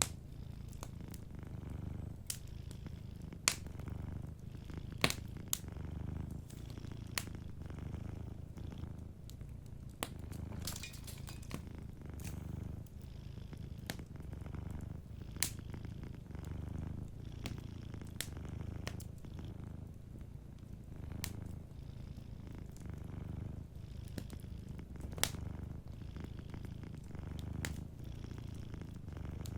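A domestic cat purring steadily, a low pulsing rumble that swells and eases with each breath. Over it come scattered sharp crackles and pops from a wood fire, a few of them louder than the rest.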